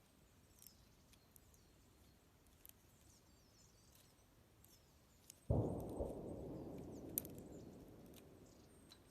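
Campfire crackling with scattered sharp pops while small birds chirp faintly. About halfway through, a sudden low rush of noise starts and fades away over about three seconds.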